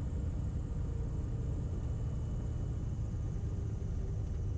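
Beechcraft Bonanza's piston engine running steadily, a low drone heard inside the cockpit.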